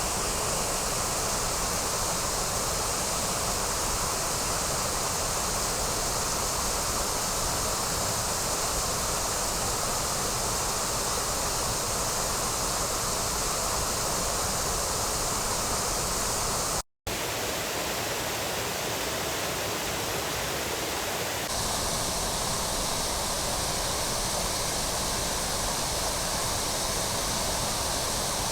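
Steady rushing of a waterfall, an even roar of falling water. It cuts out for an instant about two-thirds of the way through and returns with a slightly different tone a few seconds later.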